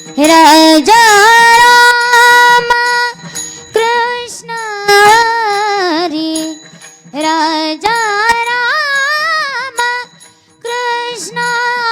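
A woman singing a Marathi gavlan, several long phrases with ornamented, bending melodic turns, separated by short breaths.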